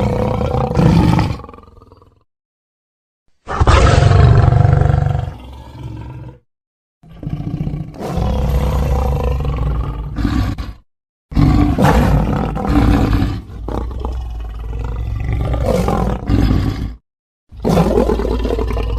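A run of separate lion and big-cat roar sound effects played one after another: the tail of one roar, then four more, each a few seconds long and rough, with short gaps of dead silence between them where each edited clip is cut off.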